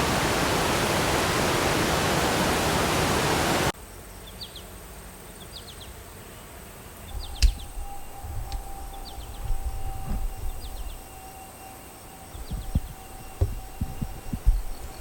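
A steady loud rush of water cuts off abruptly a few seconds in. It gives way to quieter outdoor ambience in which a small bird repeats a short high chirp about once a second, over occasional low thumps.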